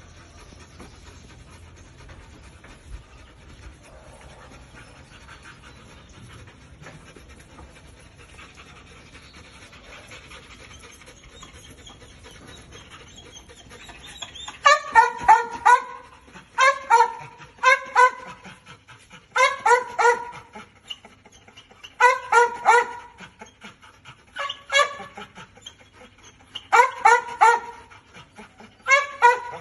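Dog panting faintly, then from about halfway on giving loud, high-pitched whines in short bursts of quick pulses, about eight bursts a couple of seconds apart.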